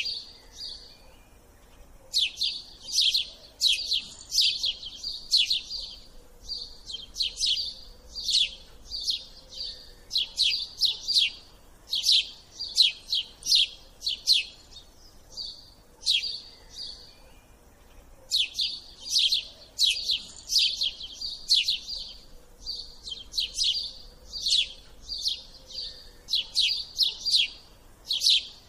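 A small songbird chirping in quick runs of sharp, high notes, in phrases of several seconds broken by short pauses.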